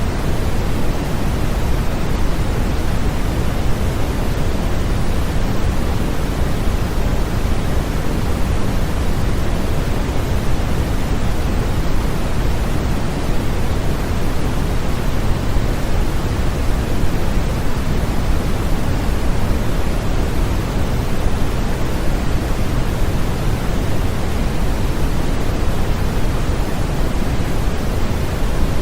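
Continuous electronically generated noise used as a sleep aid, steady and unchanging, heavier in the low end than the high, like pink noise.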